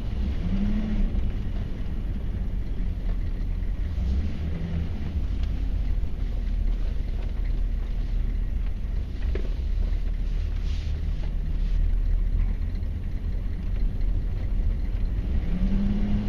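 1994 Chevy Silverado K1500's 6.5-litre V8 turbo diesel running under way, a steady low drone heard from inside the cab.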